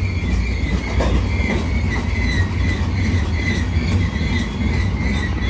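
Empty flatcar freight train rolling past: a steady rumble of steel wheels on rail, with a wavering high wheel squeal running through it.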